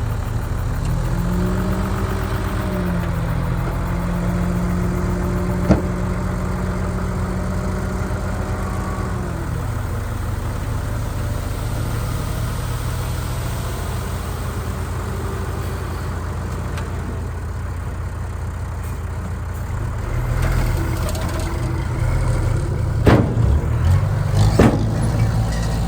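Heavy diesel machinery engine running. Its note rises about a second in, holds under load, and drops back about ten seconds in. Several sharp metallic knocks come near the end.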